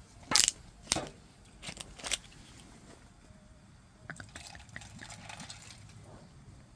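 Several loud sharp knocks or clinks in the first two seconds, then softer small clicks and rustles of handled objects.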